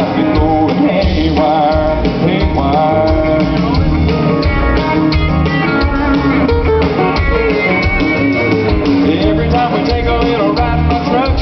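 Live country-rock band playing loudly: a drum kit keeping a steady beat under bass and electric guitars, with a bending lead line over the top.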